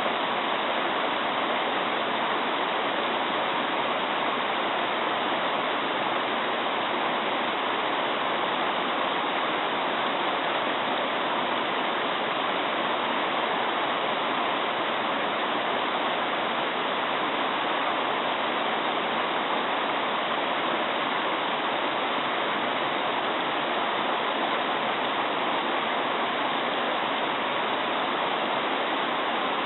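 Mountain stream babbling: a steady, even rush of flowing water.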